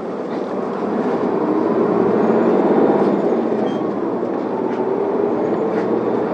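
Inside an Isuzu Elga diesel city bus pulling away from a stop: the engine and drivetrain noise grows as the bus accelerates, loudest about three seconds in, then eases a little.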